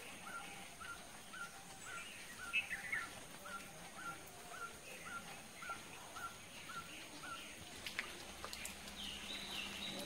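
Forest ambience: a bird calls one short note over and over, about three times a second, for some seven seconds, with other birds chirping higher. Near the end a faster run of higher notes comes in.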